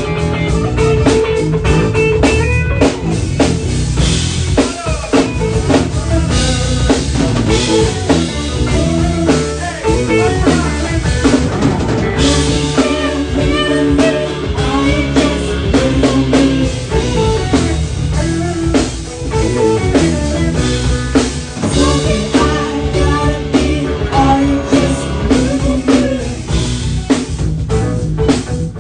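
Live band playing an instrumental passage with a drum kit, rimshots and guitar, without vocals.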